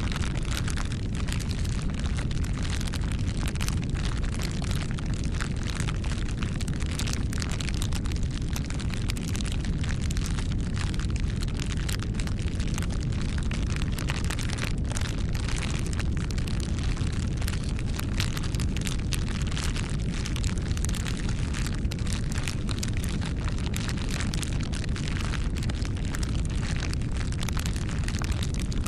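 Campfire burning: a steady low rumble of the flames with frequent sharp crackles and pops of burning wood.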